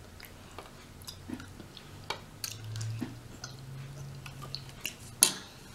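Close-up chewing and mouth sounds of someone eating rotisserie chicken, with scattered small wet clicks and smacks and one sharper click near the end.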